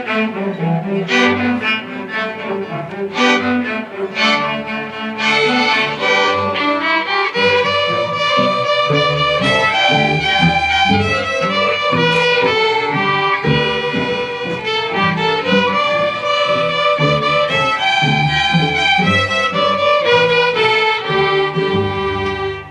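String orchestra of violins, cellos and basses playing. For the first several seconds the notes come in short separate strokes, then the players settle into longer held chords.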